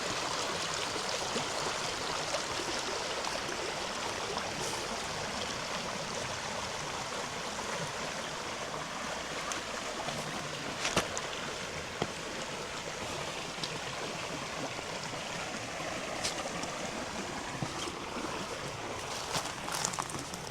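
A river flowing over rocks in a steady rush, with a few sharp clicks in the second half.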